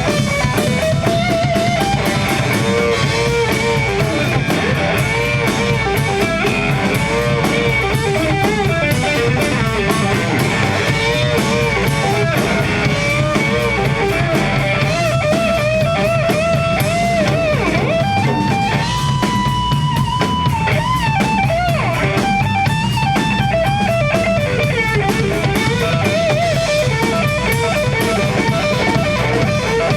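Rock band playing an instrumental passage: an electric guitar lead with bent notes and vibrato, including one long held note in the middle, over a steady drum kit.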